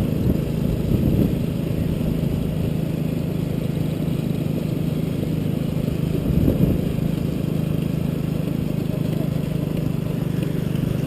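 A vehicle engine running steadily at an even pace, with a low rumble of road or wind noise, briefly swelling about six seconds in.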